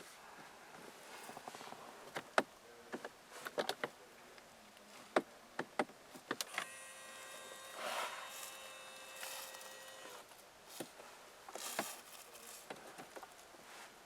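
Clicks and taps of cabin switches and trim being handled. Midway, an electric power-adjustment motor in a Mercedes-Benz S65 AMG's cabin whines steadily for about three seconds, then stops.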